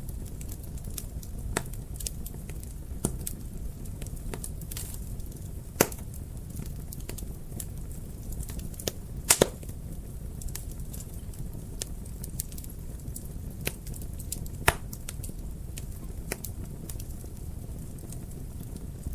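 Fireplace fire crackling: scattered sharp pops and snaps over a steady low rumble of the flames. The loudest pops come about six seconds in, as a quick double pop just after nine seconds, and again near fifteen seconds.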